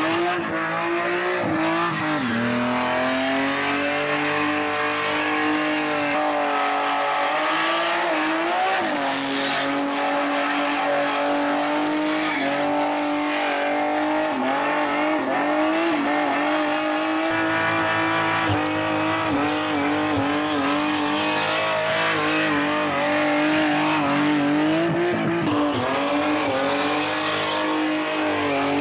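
Chrysler Centura's six-cylinder engine held at high revs through a long burnout, with the rear tyres squealing and spinning. The revs dip briefly and pick back up a few times.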